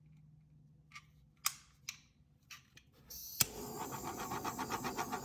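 Handheld torch: a few sharp clicks, then about three seconds in it lights with a click and runs with a steady, rapidly pulsing hiss of the flame.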